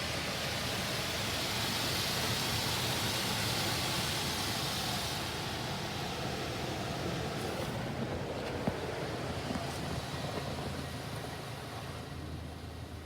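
Spot-free rinse water spraying onto a car in a touchless car wash, heard from inside the car as a steady hiss. The spray fades about five seconds in, leaving a duller rush, and a low hum of the wash machinery comes through near the end.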